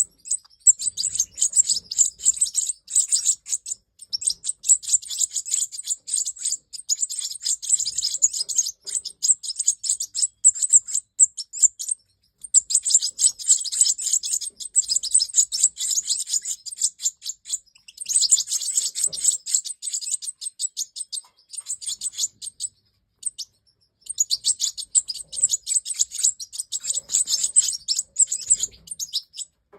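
European goldfinch of the large Major type singing: long phrases of fast, high twittering and chirps, broken by a few short pauses, the longest near the end.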